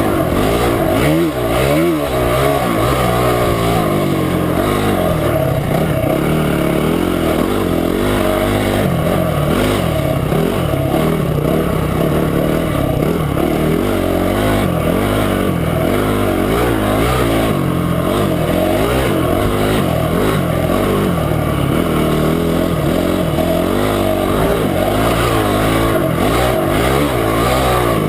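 Motorcycle engine running on a trail ride, its pitch repeatedly rising and falling as the throttle is opened and eased, over a steady rush of wind and road noise.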